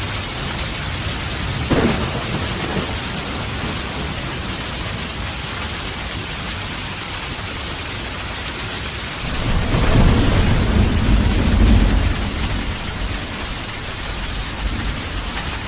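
Steady rain falling, with a sharp thunder crack about two seconds in and a long, low rolling rumble of thunder starting about nine seconds in.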